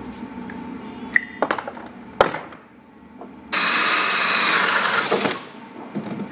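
Power drill running in one steady burst of almost two seconds, after a few knocks and clicks.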